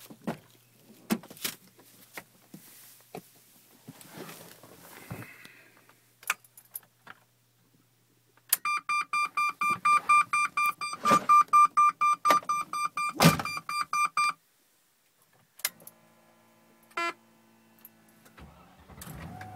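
Range Rover P38 door and handling clunks and clicks, then the dashboard warning chime beeping rapidly for about six seconds. Near the end the 4.0-litre Rover V8 cranks and catches on a cold start.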